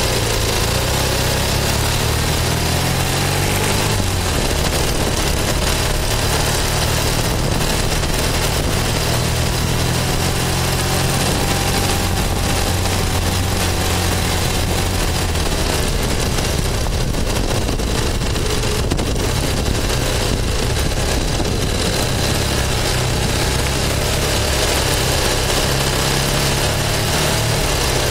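1973 Triumph Tiger's parallel-twin engine running at low road speed, heard from on the bike. The engine note shifts a few times as the throttle opens and closes.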